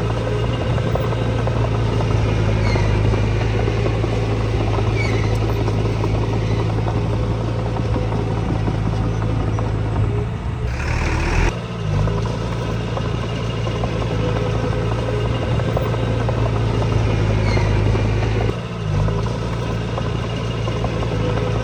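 Diesel engine of heavy earthmoving machinery running steadily under load, a constant low note, with two brief dips in the sound, one about halfway through and one near the end.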